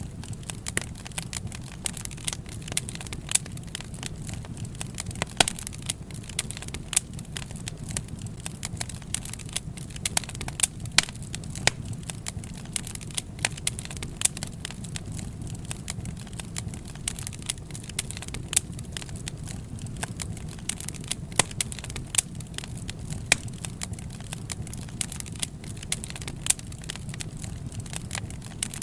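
Wood fire burning in a fireplace, with a steady low rumble of the flames and irregular sharp crackles and pops.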